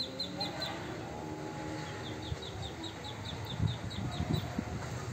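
A small bird calling a rapid series of short, high chirps, about five a second, in two bouts: one ending just under a second in, the other starting about two seconds in, over a low background rumble.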